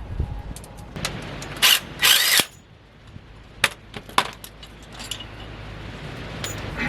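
Metal hand tools and parts clinking and clicking, with two brief louder rattles about two seconds in.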